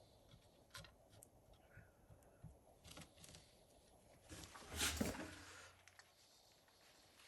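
Faint, scattered clicks and small handling noises, with one louder knock and rustle about five seconds in.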